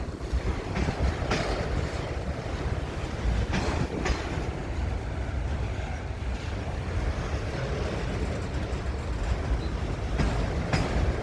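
Train cars rolling past on the rails: a steady low rumble with a few sharp clicks of wheels over the track.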